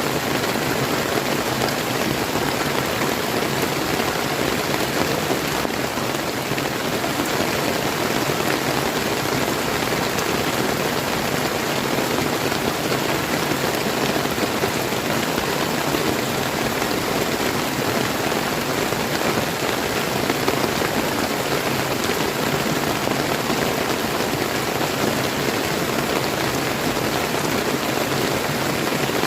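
Steady rain falling, mixed with the rush of a clear river stream, an even hiss with no breaks.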